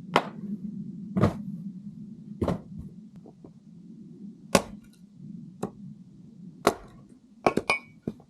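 Firewood being split: sharp cracking strikes about once a second, with a quick run of three near the end, over a steady low hum.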